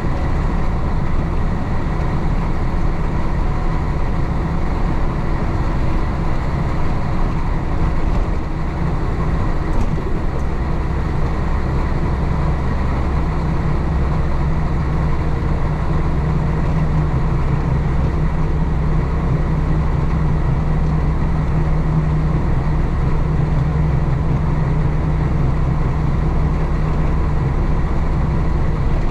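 1966 Isuzu BXD30 bonnet bus's DA640 six-cylinder diesel engine running under way. Its sound dips briefly about eight seconds in, then runs on steadily.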